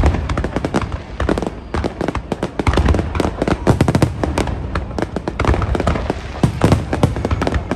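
Aerial fireworks going off in rapid succession: many sharp bangs and crackles a second over a continuous low rumble.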